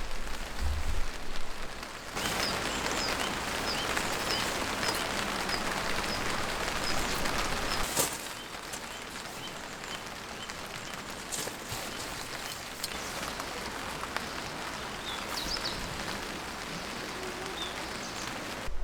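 Steady rain falling, louder in the first half and easing a little after about eight seconds, with faint short high chirps repeating in the background.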